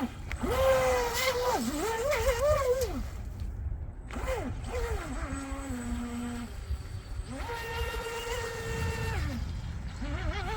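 Eachine EBT04 RC boat's brushless motor whining on a 3S battery in repeated throttle bursts: the pitch rises, holds and falls away several times, with a longer held high whine about three-quarters through. A steady low rumble runs underneath.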